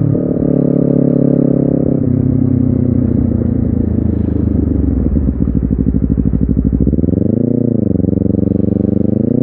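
Honda CBR250RR's parallel-twin engine through an aftermarket racing exhaust. It runs steadily, drops to a lumpy, pulsing idle, then takes two quick throttle blips, each rising and falling in pitch, about two seconds apart near the end.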